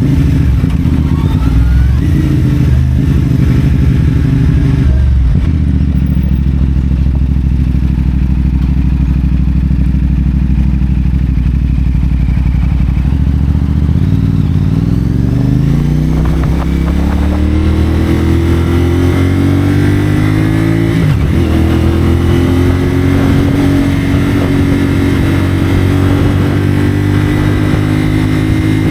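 CFMoto 450SR parallel-twin engine through a Yoshimura AT2 slip-on exhaust, heard from the rider's seat. It runs low and steady for the first half, then revs up as the bike accelerates, with two brief dips in pitch as it shifts up about 16 and 21 seconds in. After the second shift it pulls on at a steadily climbing pitch.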